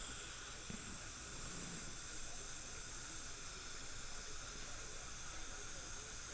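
Faint steady hiss with a few thin high-pitched tones held through it, and no distinct clicks or knocks.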